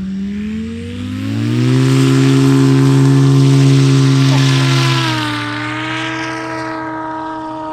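Single piston-engine propeller plane of about 300 horsepower powering up: the engine drone rises in pitch and grows louder over the first two seconds, holds at full power with a rush of propeller noise, then drops a little in pitch about five seconds in as it goes past.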